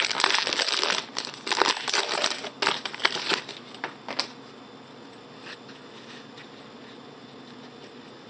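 Crinkling and rustling of a trading-card pack wrapper being torn open and the cards handled, in a run of crackly bursts that stops about four seconds in, leaving only faint room noise.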